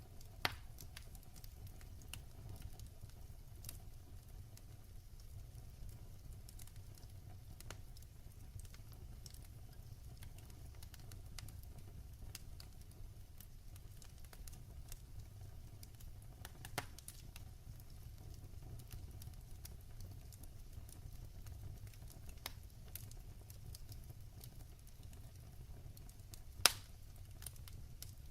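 Wood fire crackling in a fireplace: a steady low rumble of flames under scattered small crackles, with a few sharper pops, the loudest near the end.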